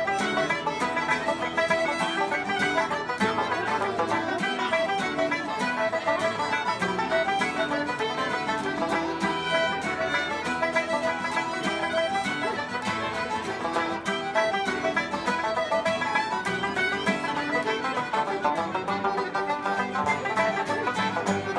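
Ceilidh band playing a traditional dance tune: a fiddle carrying the melody over plucked-string accompaniment, continuous throughout.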